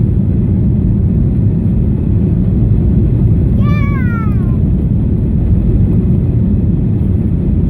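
Steady low roar of an airliner's jet engines heard from inside the cabin during take-off and climb. About halfway through, a brief high, wavering cry falls in pitch over the rumble.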